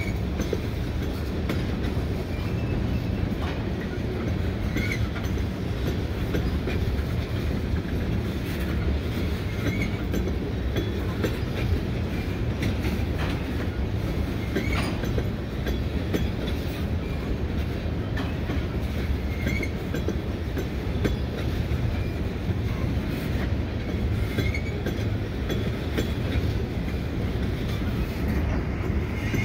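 Freight train tank cars rolling past: a steady rumble of steel wheels on the rails with clickety-clack over the joints, and brief high wheel squeaks about every five seconds.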